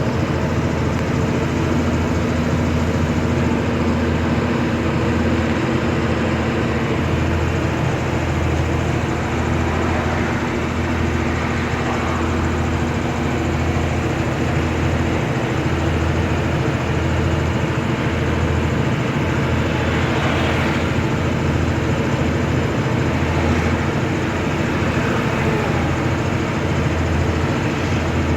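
A truck's engine running steadily under way, a constant drone with road noise.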